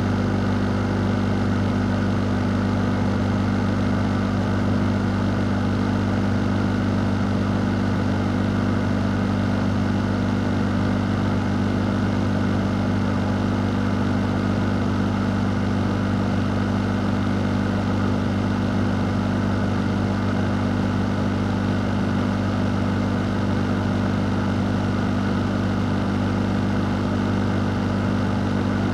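Fan running steadily: a constant motor hum with a low tone over an even rush of air, unchanging throughout.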